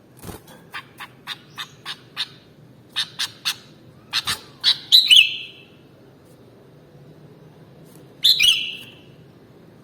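Sooty-headed bulbul calling: a run of short, sharp chip notes about three a second that grow louder, then a louder, longer call about five seconds in and another near the end.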